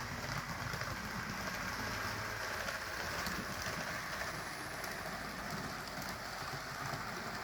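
HO scale model train of Walthers Trainline GP15-1 diesel locomotives and cars running on sectional track. Motors whir and wheels roll on the rails in a steady hiss, with a few faint clicks.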